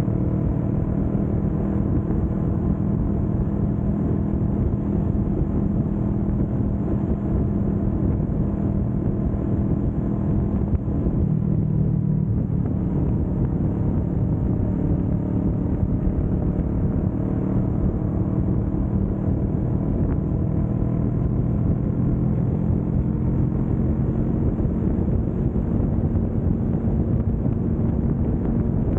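Kawasaki Vulcan S 650's parallel-twin engine running steadily at cruising speed, with a low rumble under the engine note. About eleven seconds in the note dips briefly and then settles at a slightly different pitch.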